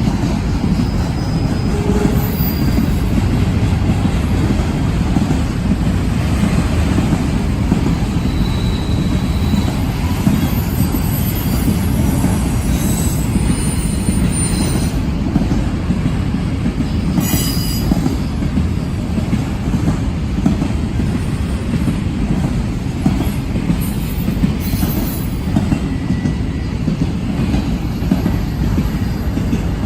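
Auto rack freight train rolling past: a steady, loud rumble of the cars on the rails, with some clicking over the rail joints and faint high wheel squeal now and then around the middle.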